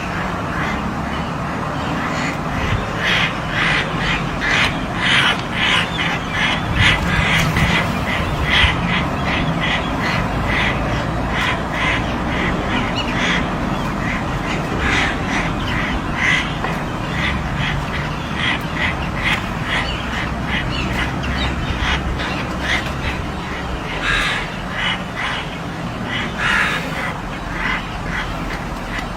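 Crows cawing harshly and over and over, often two or three calls a second, over a low steady rumble.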